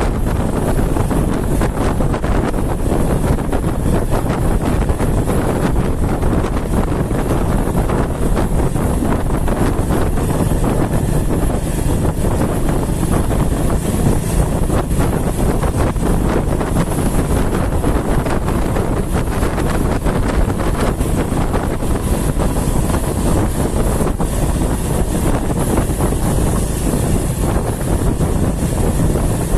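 Wind buffeting the microphone over the steady road noise of a moving vehicle, a loud, even rumble without breaks.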